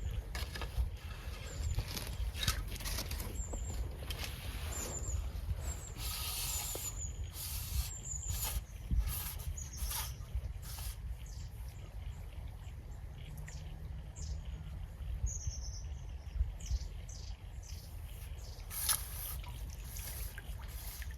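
Outdoor riverbank ambience: a small bird calling with short, thin, very high chirps, repeated about once a second for the first ten seconds and once more as a falling note later. Under it runs a steady low rumble of wind on the microphone, with scattered sharp clicks and rustles.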